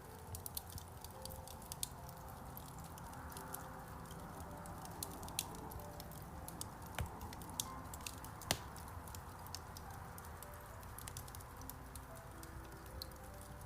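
Wood fire crackling in a fireplace, with frequent small pops and a couple of sharper snaps about halfway through, over soft piano music.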